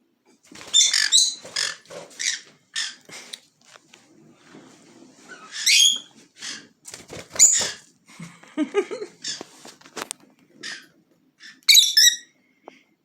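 Small pet parrots calling: a quick run of short chirps and squawks, with louder rising shrieks about six and twelve seconds in.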